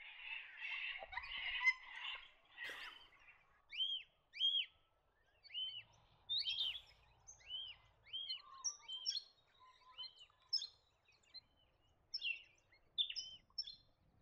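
Red-rumped parrots calling: a dense chatter of overlapping calls for about three seconds, then a run of short, arched whistled notes repeating roughly once or twice a second, with some higher notes mixed in.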